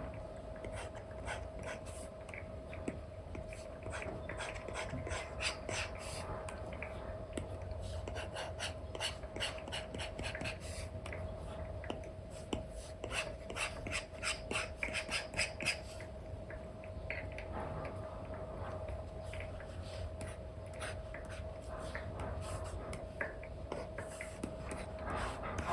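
Apple Pencil with an Elecom nib scratching and tapping across an iPad's paper-like screen film in quick short brush strokes, the strokes coming fastest and loudest through the middle. A faint steady hum runs underneath.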